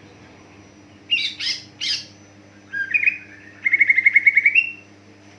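Green leafbird (cucak ijo) singing: three loud sweeping notes, then a short phrase and a fast trill of about a dozen notes ending on a rising note, over a steady low hum.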